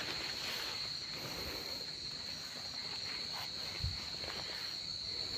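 Crickets singing: a steady, unbroken high trill, with a soft low thump about four seconds in.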